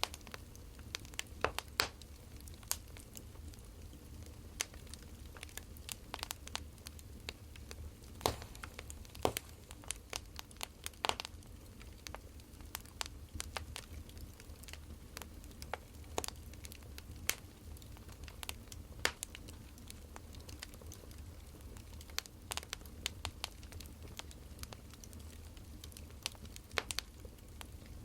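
Wood fire crackling: irregular sharp pops and snaps, several every second, over a low steady rumble.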